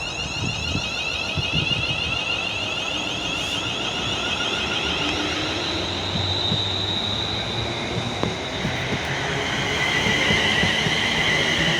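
Class 350 Desiro electric multiple unit pulling away, its traction motors giving a high whine that shifts in pitch over a low running rumble, getting a little louder near the end.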